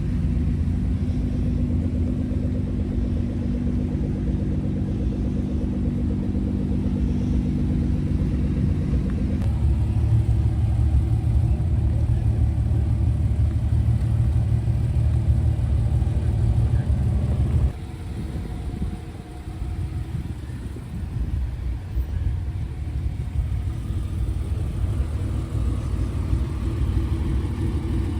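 Car engine running at a steady idle, deep and rumbling. Its note shifts about a third of the way in, drops off sharply a little past halfway, and picks up again near the end.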